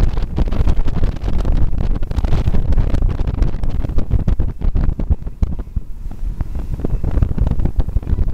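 Wind buffeting the microphone on a moving boat, a loud, uneven low rumble with the boat's running noise underneath.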